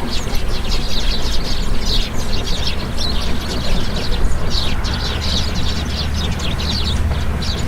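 Small birds chirping, many short high calls in quick clusters, over a steady low rumble.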